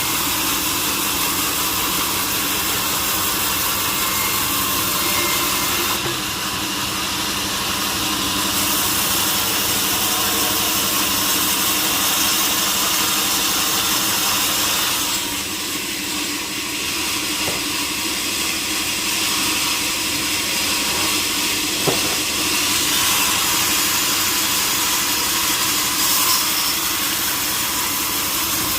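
Large sawmill saw running, most likely cutting a log: a steady mechanical drone with a strong hiss and a few steady tones, easing slightly twice along the way.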